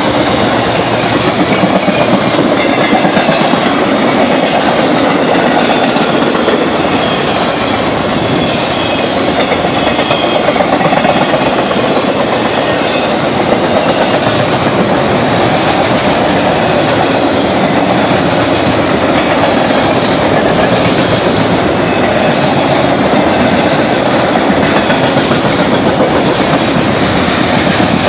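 Freight train of loaded flatcars rolling steadily past: the continuous rumble and clatter of steel wheels on the rails.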